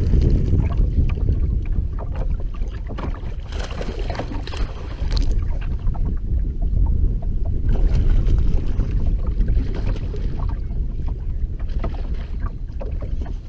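Strong wind buffeting the microphone on an open boat, a heavy low rumble that rises and falls in gusts, with scattered small taps and splashes of rain and water.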